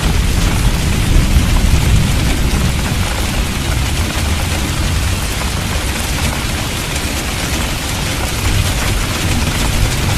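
Steady rain with a low rumble of thunder underneath, a little stronger in the first few seconds.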